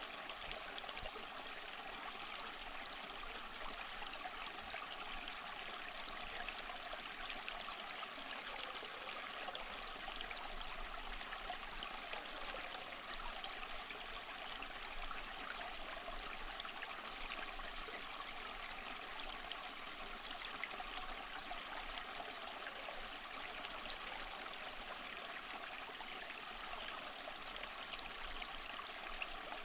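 Waterfall: a steady, unbroken rush of falling water, mostly hiss and splash with little low rumble.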